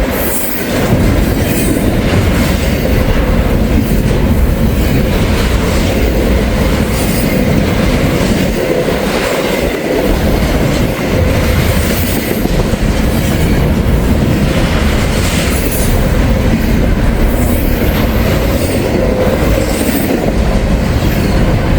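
CSX freight train cars rolling past close by: a loud, steady noise of steel wheels on the rails, with faint repeated clicks.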